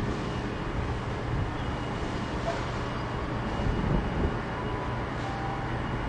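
GWR Hitachi Intercity Express Train approaching slowly: a steady low hum over a rushing background noise, with a small swell about four seconds in.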